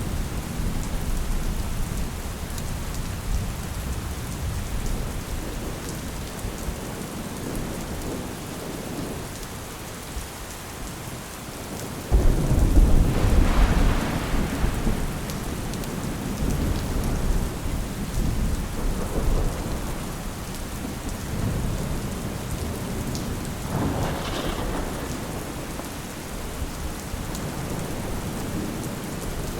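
Steady rain with rolling thunder. About twelve seconds in, a sudden loud thunderclap rumbles on for a few seconds, and a smaller roll of thunder follows near the middle of the second half.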